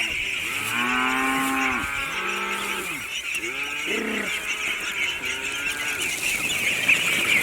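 Cattle mooing: four drawn-out calls that rise and fall in pitch, over a steady high-pitched hiss.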